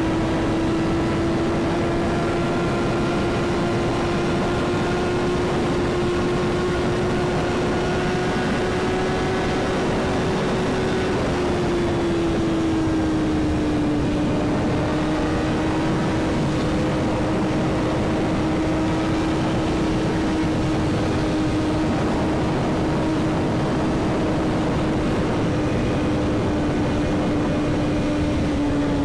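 Sportbike engine running at a steady cruise, its note dipping slightly about halfway through and then holding, with wind rushing over the microphone.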